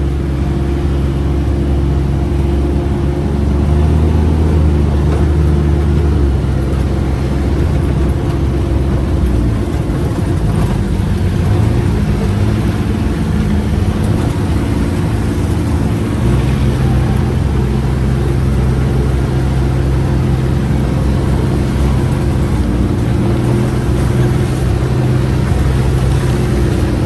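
UTV engine running while under way: a steady low drone that shifts in pitch now and then as the throttle changes.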